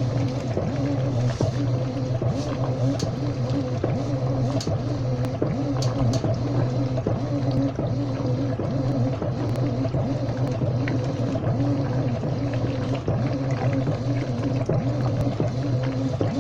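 Washing machine running: a steady low hum with water sounds in it and a few light clicks.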